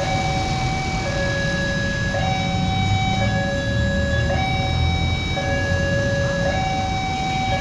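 Railway level-crossing warning alarm sounding an electronic two-tone signal that switches between a high and a low tone about once a second. A low engine rumble runs underneath.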